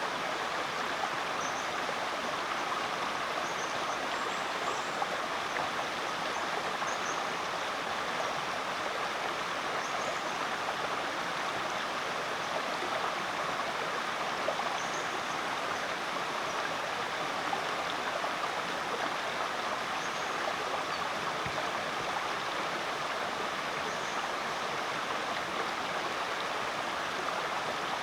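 Creek water flowing and splashing steadily, with a few faint high chirps now and then.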